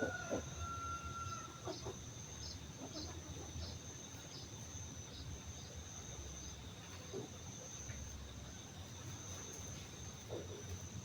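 Steady high insect drone with a regular chirp about twice a second for several seconds. A short whistled bird note sounds in the first second and a half, with scattered faint low calls.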